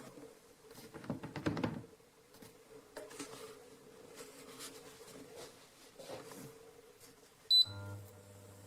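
Philips HU2716/10 humidifier being handled and switched on: irregular clatter and rustling, then near the end a single short high beep from its control panel, and right after it the fan starts up with a steady low hum.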